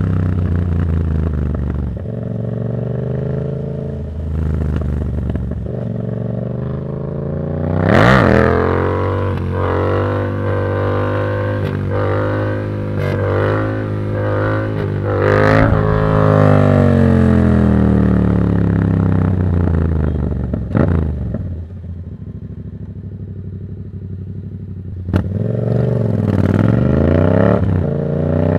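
Yamaha MT-07's parallel-twin engine breathing through a Black Widow aftermarket exhaust with no dB killer, ridden with the revs rising and falling again and again through the gears. The loudest pulls come about 8 and 16 seconds in, the engine settles quieter for a few seconds past the 20-second mark, and it revs up again near the end.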